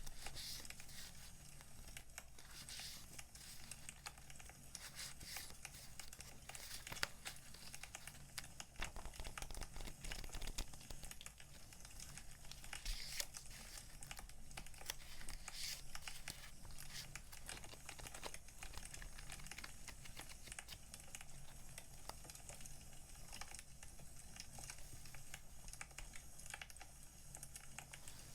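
Plastic sleeves and paper stickers crinkling and rustling as they are handled, with small clicks and taps, over the crackling of a wood fire.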